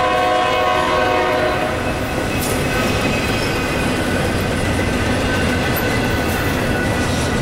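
Loaded double-stack container well cars of a Norfolk Southern intermodal train rolling past with a continuous steady wheel-on-rail rumble. Over it the head-end locomotive's multi-chime horn sounds a held chord that stops about two seconds in, and a faint high whine carries on after.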